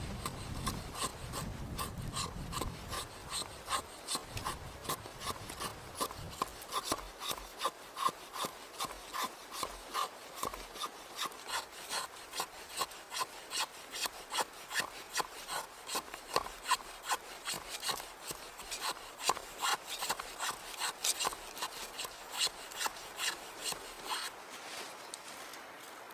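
Hand saw cutting through wood, a steady back-and-forth of rasping strokes at about two a second, stopping near the end.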